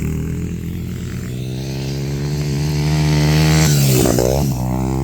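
Dirt bike engine running, growing louder until about three and a half seconds in, then its pitch drops sharply as it goes by.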